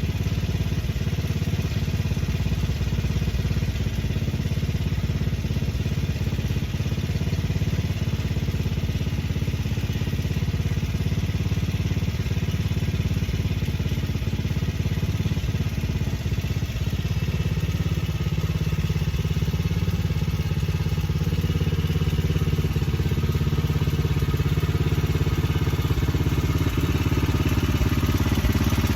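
1985 Murray lawn tractor's small engine running steadily as the tractor is driven, getting a little louder in the last third.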